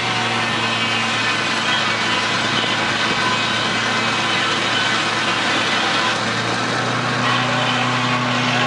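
Steam-powered sawmill running: steady, loud mechanical noise from the engine and mill machinery, with a constant low hum underneath.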